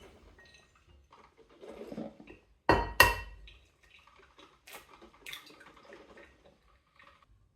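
Tableware being handled: two loud clinks about three seconds in that ring briefly, with smaller clicks and knocks around them.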